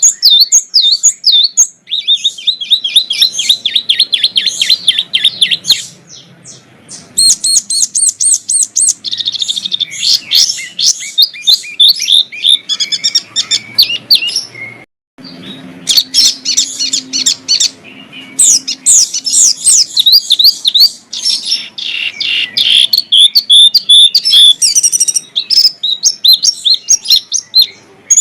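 Small songbirds singing loud, rapid runs of high chirps and trills, one phrase tumbling into the next, with a short lull and one sudden brief break partway through.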